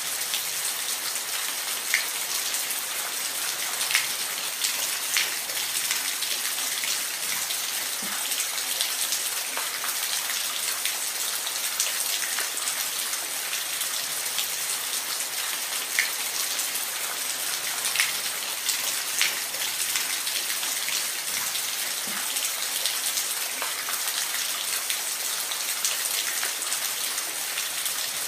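Falling water: a steady high hiss of water with scattered sharp drips and splashes every second or two.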